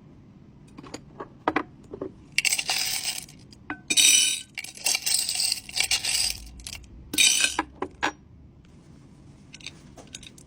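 Small hard items clicking and clinking as they are handled and dropped into packaging, with several loud bursts of rustling and clattering in the middle.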